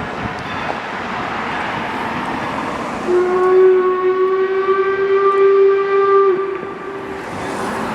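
4-4-0 steam locomotive working past with a steady rushing noise, then sounding its steam whistle about three seconds in: one long steady blast that drops away briefly a second before the end and then comes back strong.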